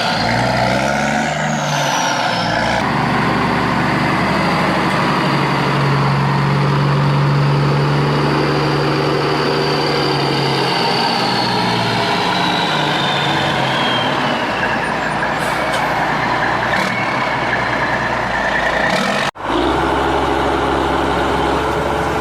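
Cartoon truck and vehicle sound effects: a continuous engine-like drone with pitch glides, breaking off abruptly for an instant about nineteen seconds in before carrying on.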